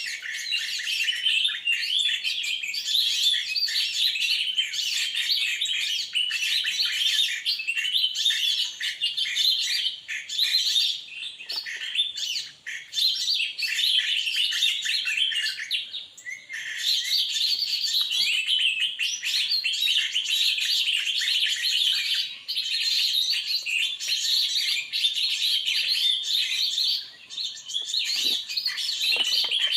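Many small birds chirping and twittering at once, a dense, busy chatter that runs on with only brief lulls, around twelve and sixteen seconds in.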